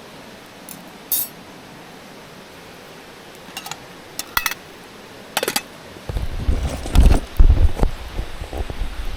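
Camping gear being handled: a few light metal clinks and clicks, then heavier knocks and low thumps from about six seconds in, over a steady background hiss.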